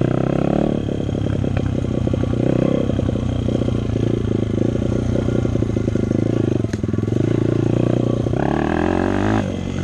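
Dirt bike engine running steadily, then revving up about eight seconds in, its pitch rising before it drops away near the end.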